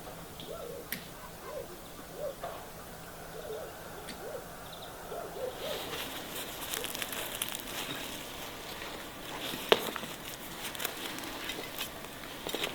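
Short, low bird calls repeating every half second or so. About six seconds in, a dense run of clicking and crackling joins them.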